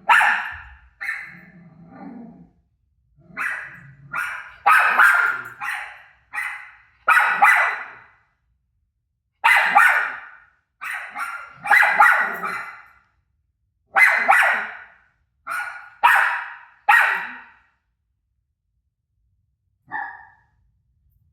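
A dog barking in quick runs of short, sharp barks with brief pauses between runs, reacting to the sound of her own barking played on a TV. The barking stops about three-quarters of the way through, with one last bark near the end.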